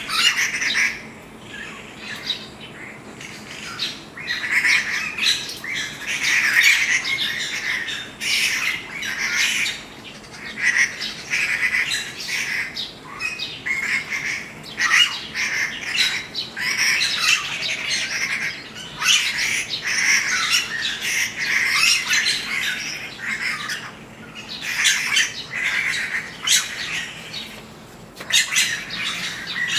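Birds calling over and over, short calls following one another with only brief breaks.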